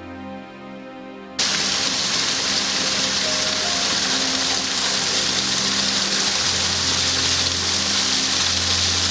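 Soft background music, then about a second and a half in the steady rushing hiss of a small waterfall cuts in suddenly and loudly, with the music going on underneath.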